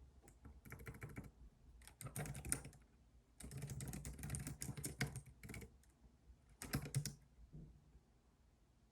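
Computer keyboard being typed on in four short runs of rapid keystrokes, the longest about two seconds, with brief pauses between them.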